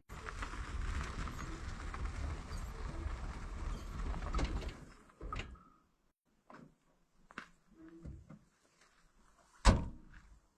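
Steady vehicle running noise that fades out about halfway, then a few small knocks and one loud door slam near the end.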